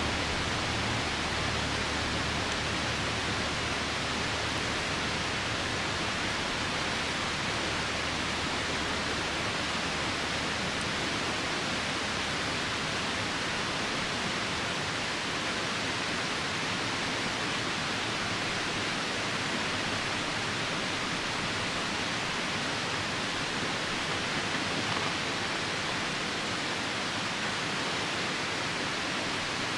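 Steady rushing of river water together with falling rain: an even, unbroken hiss with no distinct fire crackles standing out.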